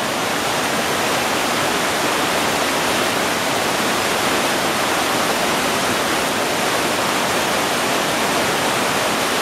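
Creek water rushing, loud and steady with no letup.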